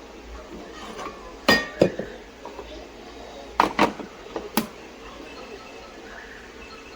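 Sharp clinks and knocks of hard objects being handled: two close together about a second and a half in, then three more between about three and a half and four and a half seconds in.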